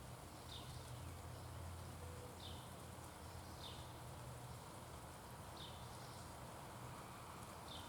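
A bird giving short, high, down-slurred chirps, repeated about every second or two, sometimes in pairs, over a steady low background rumble.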